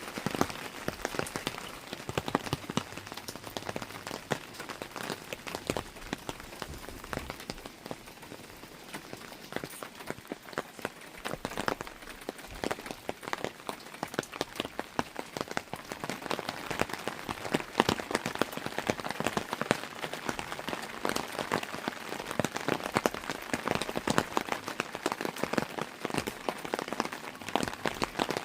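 Rain falling steadily: a dense, irregular patter of drops striking a surface over a continuous hiss, easing slightly for a few seconds and then a little heavier in the second half.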